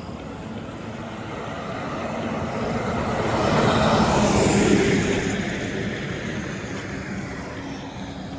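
A road vehicle passing close by: its noise builds to a peak about four seconds in, then fades, dropping in pitch as it goes past.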